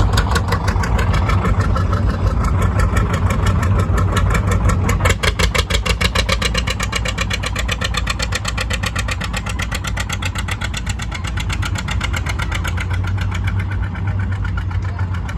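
Tractor engine running loudly, with rapid, even firing pulses that become sharper about five seconds in.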